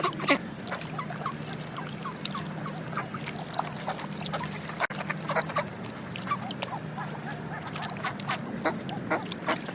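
Ducks quacking, many short calls overlapping from several birds, over a steady low hum.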